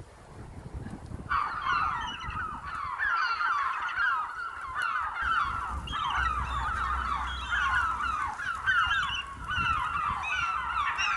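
A flock of seagulls calling over and over, many harsh, downward-sliding squawks overlapping. The calls start abruptly about a second in.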